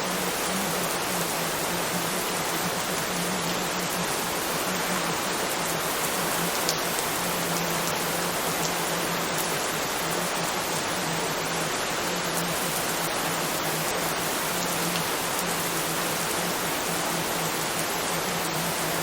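Steady rain: a dense, even hiss of falling drops, with a low hum underneath that comes and goes.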